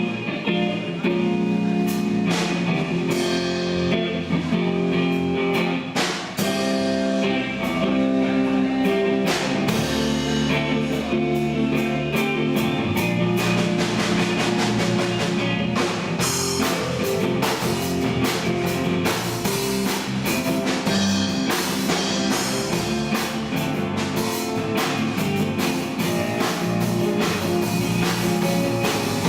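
Rock band playing live: guitar chords over a drum kit, with no vocals. The drumming gets busier about halfway through.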